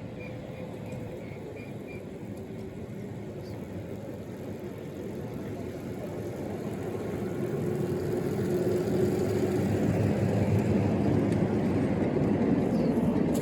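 A 5-inch gauge miniature ride-on train running on its track, getting steadily louder over the second half as it comes close.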